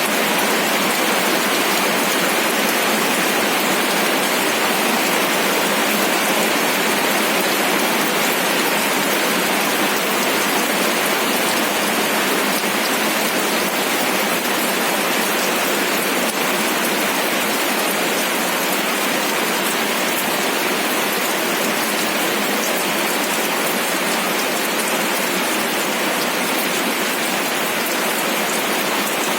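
Steady rain falling: an even hiss of many drops, with faint single drop ticks scattered through it.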